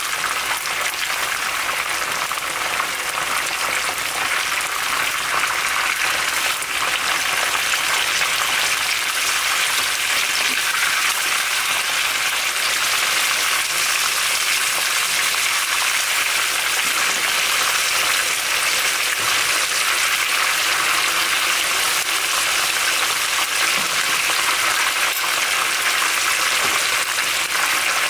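Chicken pieces frying in hot oil, with a steady, even sizzle.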